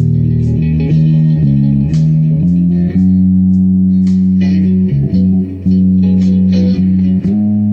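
Electric bass guitar with a Music Man-style humbucker (ARTEC MM-4) being played: a line of low notes, each plucked with a sharp attack and held for up to about two seconds.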